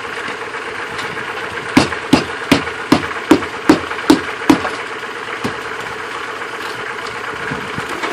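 Eight sharp hammer blows struck in a steady rhythm, about two and a half a second, on the boat's transom while breaking into it, over a steady motor hum.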